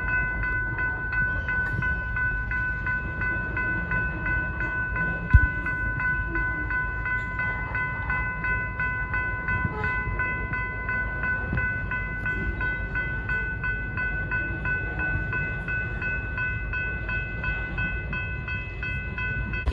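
Freight cars of a slowly passing train rolling over the rails with a low rumble, while the grade-crossing warning bell rings in quick, even strokes. One sharp clank about five seconds in.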